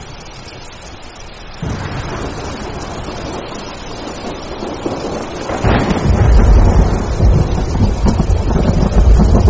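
Thunder over steady rain: a rumble builds about a second and a half in and swells into a loud, deep roll about halfway through that is still going at the end.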